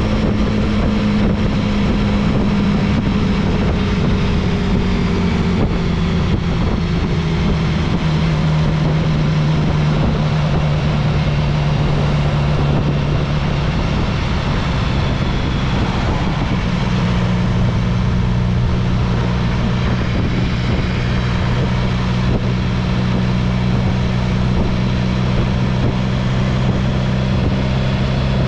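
Motorcycle engine running steadily while riding. Its pitch eases slowly down over the first half and then holds steady, over a constant rush of wind noise on the microphone.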